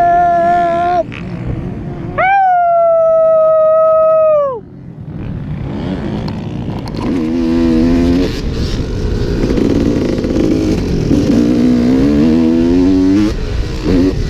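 Dirt bike engine running under load amid rushing wind noise, its pitch climbing twice as it revs up. It is preceded in the first few seconds by two long, high-pitched held howls.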